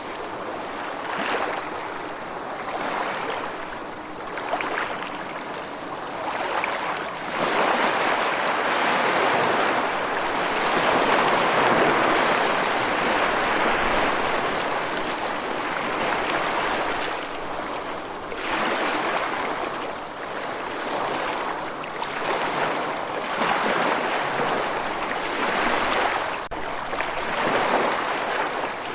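Rushing water, a continuous wash of noise that swells and eases every few seconds.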